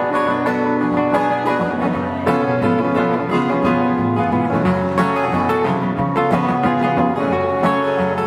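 Acoustic guitar picking a steady folk-blues instrumental intro, played live.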